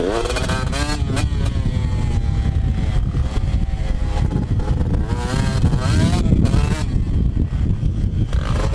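Two-stroke motocross dirt bike engine being ridden hard, revving up and down repeatedly as the throttle opens and closes, over a heavy low rumble.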